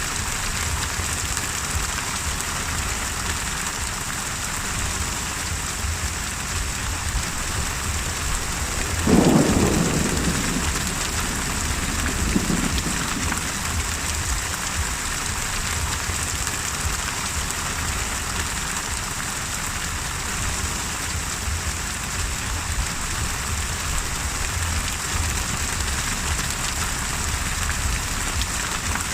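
Steady heavy rain hissing, with a sudden clap of thunder about nine seconds in that rumbles away over a second or two, and a weaker rumble about three seconds later.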